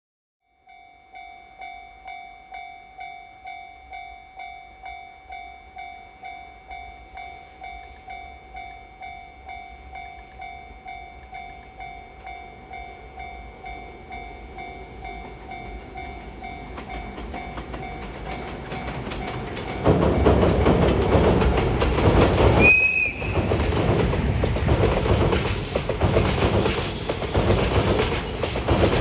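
A level-crossing warning bell dings about one and a half times a second, rising in the mix. About 20 seconds in, an EF510 electric locomotive and freight train pass close by, loud, with the wheels clattering over the rail joints and drowning out the bell. A short high-pitched toot sounds about three seconds after the train arrives.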